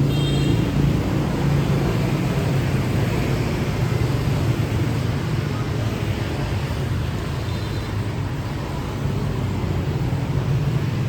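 Steady city street traffic: continuous engine and road noise from passing vehicles, with a brief high-pitched tone near the start and another about two thirds of the way through.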